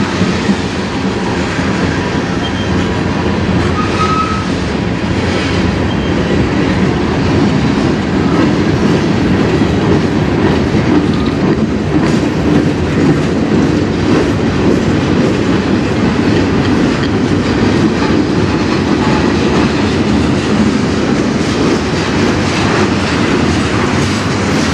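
Tank cars and boxcars of a freight train rolling past: a steady, loud rumble with the clickety-clack of steel wheels over rail joints. A few brief, faint wheel squeals come through, one about four seconds in.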